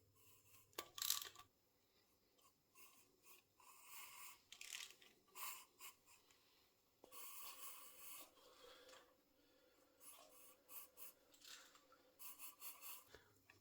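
Faint, irregular scraping and rubbing from hand work on a motorcycle engine, in short bursts with a longer stretch about seven seconds in.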